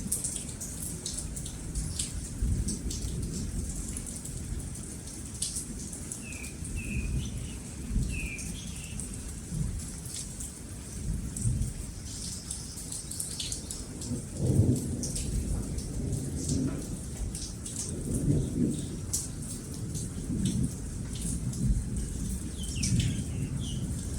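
Steady rain falling under rolling thunder that rumbles throughout, swelling louder about halfway through and again a few seconds later. A few short bird chirps come through the rain about a quarter of the way in and again near the end.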